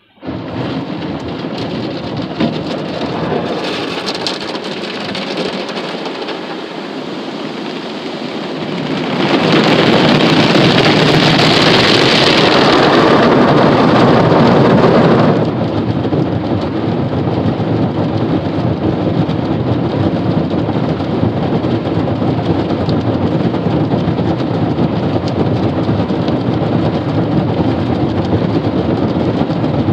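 Automatic car wash spraying water onto a truck, heard from inside the cab as a dense drumming rush like a downpour. It starts suddenly, is at its loudest from about nine to fifteen seconds in, then settles into a steady spray.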